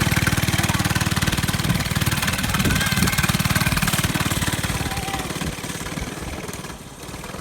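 Mini bike's small engine running close by with a rapid, even exhaust pulse, fading steadily as the bike moves away.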